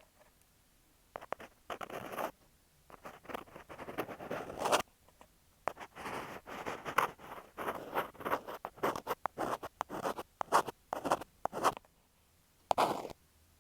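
Earpick scraping and scratching close against an in-ear earphone microphone in short, quick strokes with brief pauses, giving close-up ear-cleaning sounds.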